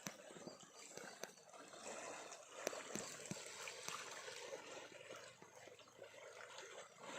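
Faint river water flowing and trickling, with a few small clicks.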